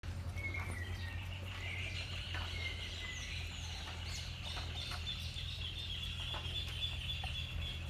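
Birds calling in the background: a steady, high-pitched chirring with a few short chirps in the first couple of seconds, and scattered faint clicks.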